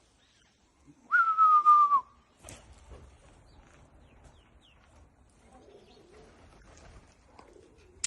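One whistled note, about a second long, starting a little high, then held nearly level before dropping off at the end, with breath noise around it. After it, only faint low rustling and a few small ticks.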